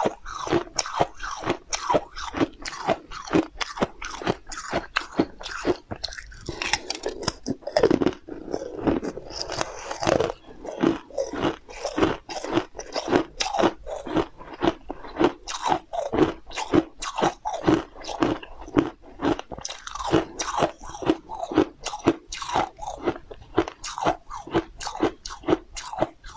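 A person crunching and chewing a hard, brittle translucent candy close to a lapel microphone, in a steady rhythm of crackling chews. A denser, louder stretch of crunching comes about seven to ten seconds in.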